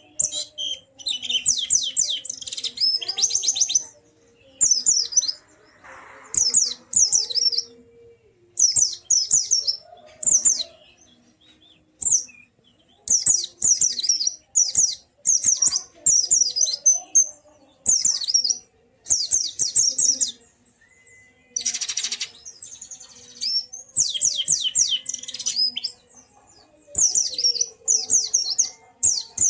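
White-eye (pleci) singing in repeated rapid, high twittering phrases, each a second or two long with short gaps between. A brief hiss about 22 seconds in.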